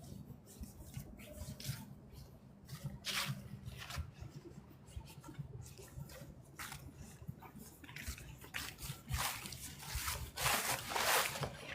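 Irregular rustling and crackling, growing denser and louder near the end.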